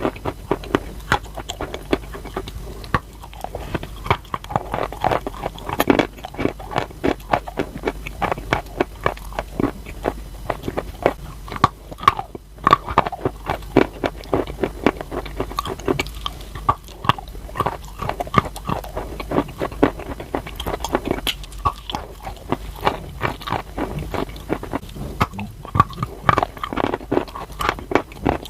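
A person biting and chewing crunchy chalk: a dense, unbroken run of sharp crunches, several a second.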